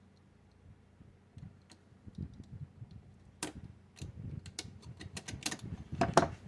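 Sharp, irregular clicks and taps from small hobby tools working on model parts, sparse at first and coming thicker in the second half, the loudest near the end.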